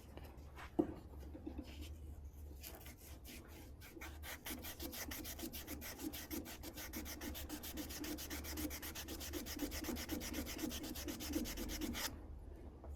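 A furnace flame sensor rod being scrubbed clean by hand with an abrasive, in quick, steady back-and-forth strokes, several a second, that stop suddenly near the end. A single light knock comes just before the scrubbing starts.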